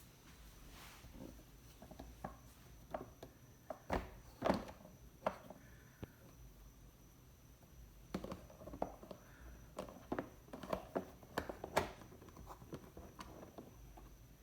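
Plastic beehive feeding-tray parts being handled and pulled out, giving irregular clicks and knocks, with a cluster about four seconds in and a busier run from about eight to twelve seconds.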